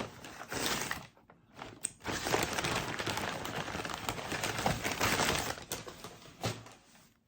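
Paper takeaway bag and food packaging rustling and crinkling as food is taken out, with small crackles and clicks. There is a brief pause about a second in, then steady rustling that dies away near the end.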